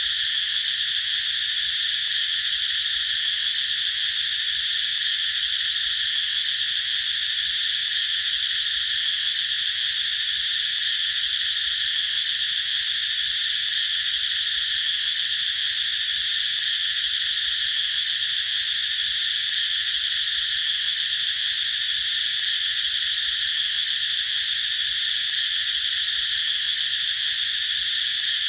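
A chorus of cicadas singing under trees: a steady, unbroken high-pitched buzz that does not change.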